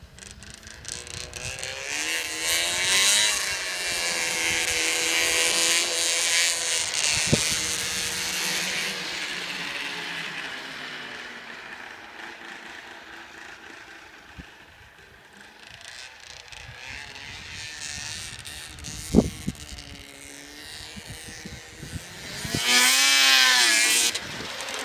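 Arctic Cat ZR 700 snowmobile engine revving up and easing off as the sled rides past, loudest as it goes by near the start and again, close by, near the end. A sharp knock sounds about two-thirds of the way through.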